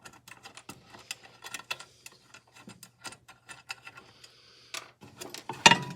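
Irregular small metal clicks and taps as a small Allen key is fitted and turned on the screws of a miter saw being dismantled. A louder knock comes near the end.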